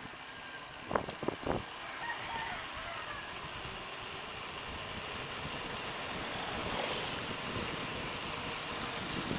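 Wind rushing over the microphone of a camera on a moving bicycle, a steady noise, with a quick run of three or four sharp knocks about a second in.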